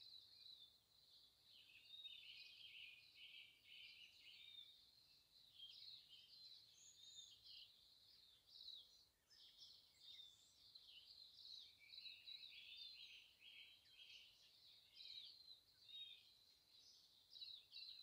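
Faint songbirds singing: many quick chirps and trills from several birds, overlapping without a break.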